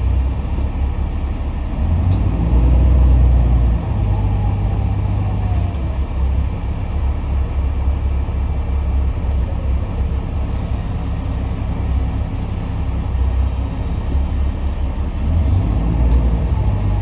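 The cabin of a Yutong ZK6128HG diesel city bus under way: a steady low engine drone and road rumble. The engine note rises and falls, loudest about two to four seconds in and again near the end.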